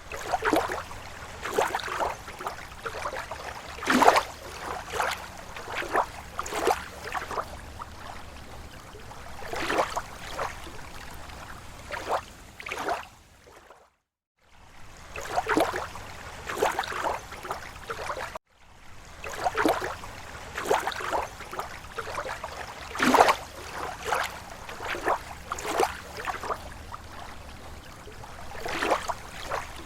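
Small, slow waves lapping at a lake shore: irregular splashes and slaps of water every second or so over a steady wash. The sound cuts out to silence twice for a moment past the middle.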